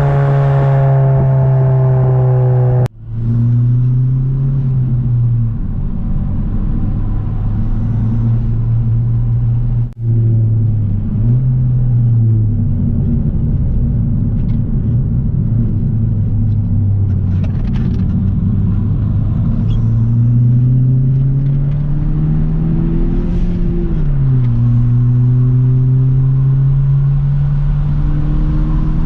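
Exhaust of a straight-piped 10th-generation Honda Civic with a turbocharged four-cylinder, its stock catted downpipe keeping it fairly quiet, droning steadily while driving. The pitch falls at the start, the sound cuts out briefly twice, about three and ten seconds in, and the note climbs slowly in the second half before dropping again.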